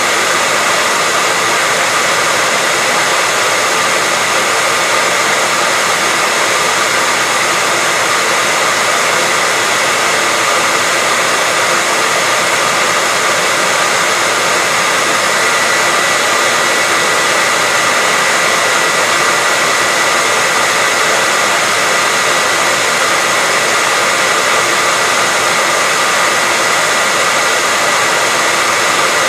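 Hair dryer running steadily: an even rush of blown air with a thin, constant motor whine through it.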